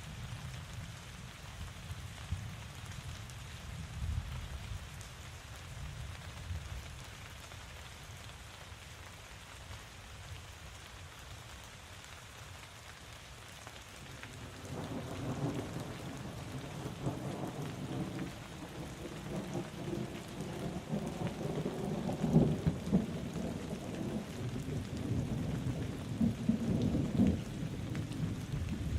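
Steady heavy rain, with a long roll of thunder that builds from about halfway and rumbles on in swells to the end.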